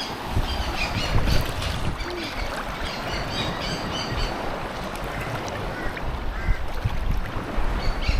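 Birds calling over and over in short quick runs, over a steady rush of wind and water with low rumbles.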